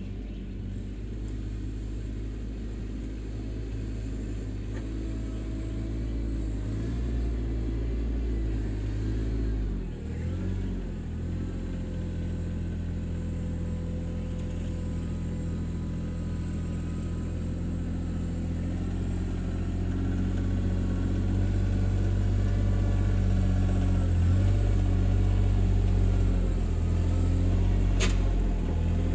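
Three-cylinder Yanmar diesel engine of an RK24 subcompact tractor running steadily, dipping briefly about ten seconds in and growing louder in the last third.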